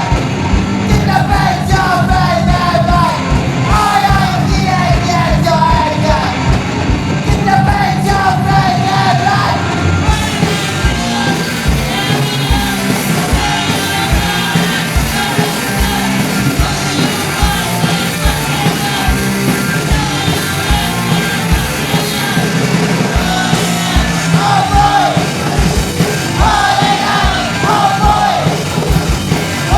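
Live punk rock band playing loud and fast: distorted guitars, bass and a driving drum beat, with shouted, yelled vocals at the start and again near the end. The cymbals get brighter about a third of the way through.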